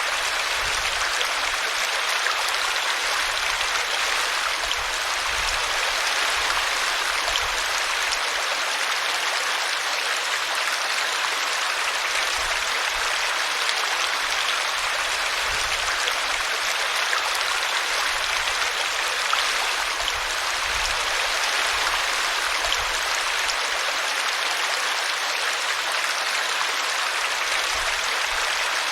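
Small brook running steadily over a tree root in a constant splash of water.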